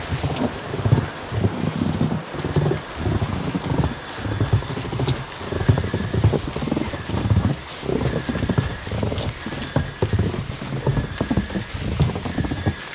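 A hiker's footsteps in fresh snow, a steady walking rhythm of about two steps a second.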